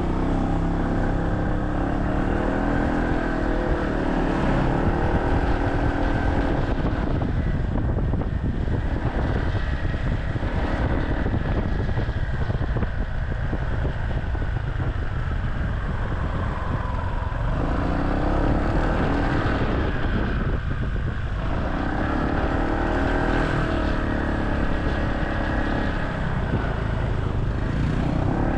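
Motorcycle taxi riding through traffic: its small engine rises and falls in pitch as it accelerates and eases off, over a constant low rumble of wind and road noise on the microphone.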